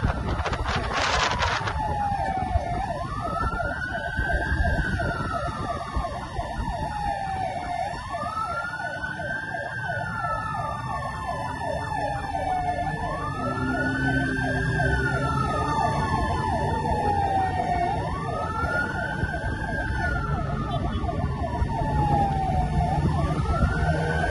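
Fire truck siren wailing: the pitch climbs quickly, then sinks slowly, repeating about every five seconds over a steady low rumble of the truck's engine and road noise. A burst of loud noise fills the first second or so.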